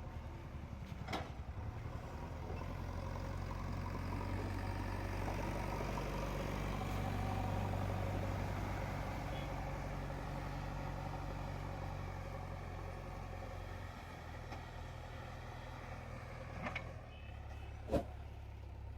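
JCB 3DX Eco backhoe loader's diesel engine running steadily, growing louder for several seconds around the middle and easing back down. A sharp click sounds near the end.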